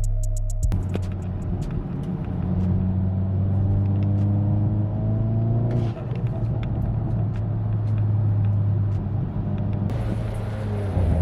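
Hyundai Veloster N's 2.0-litre turbocharged four-cylinder engine and exhaust running as a low steady drone, with a tone rising slowly over the first several seconds. A hiss comes in near the end.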